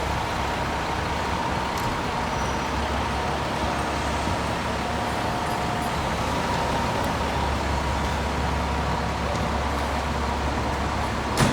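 Steady city street traffic with a low engine rumble, and one sharp knock just before the end.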